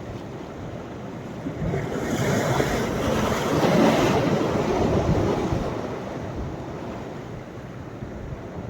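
Sea waves breaking on a beach: one wave swells up about two seconds in, peaks, and washes back out by about six seconds, over the steady hiss of the surf.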